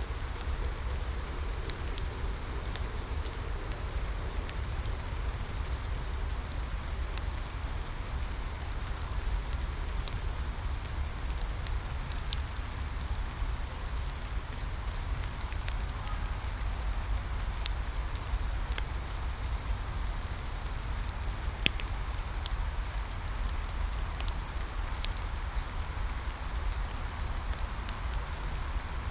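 Steady rain falling, with a low rumble underneath and scattered sharp pops and crackles from a burning wood fire.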